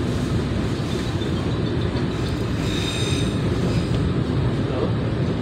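Passenger train coach running on the rails, heard from inside: a steady low rumble, with a high wheel squeal for about a second midway as the wheels take a curve.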